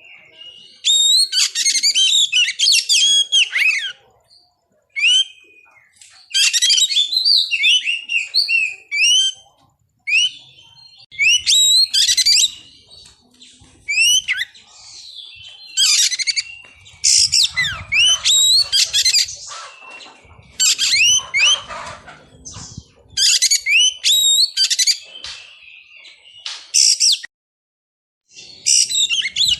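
Oriental magpie-robin (kacer) singing: about a dozen loud, varied phrases of quick whistles and chirps, each a second or two long, with short pauses between.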